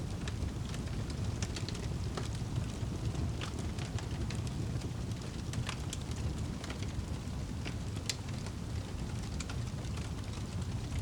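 Fire crackling in a fireplace: irregular sharp pops and snaps over a steady low rumble of the burning fire.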